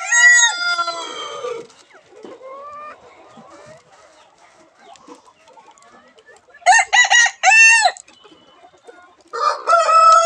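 Cochin roosters crowing: a crow at the start, a crow of four short notes about seven seconds in, and another beginning near the end, with soft clucking in between.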